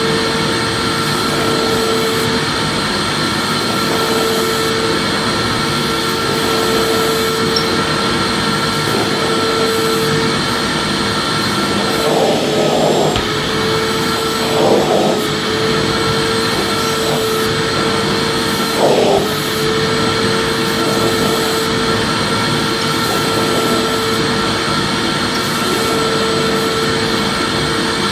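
Vacuum cleaner motor running steadily, a dense rushing noise with a steady whine in it, played as white noise for sleep. The sound swells briefly three times, about twelve, fifteen and nineteen seconds in.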